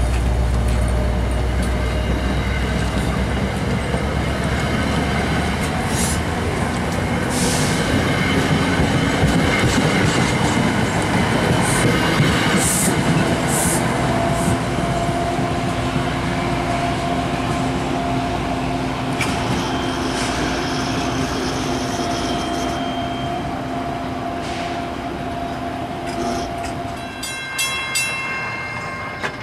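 An NJ Transit commuter train rolls past the platform and pulls away, a steady rumble of wheels on rail with a few brief high-pitched squeals in the first half. Steady tones sound through the middle, and the noise fades near the end as a grade-crossing bell rings.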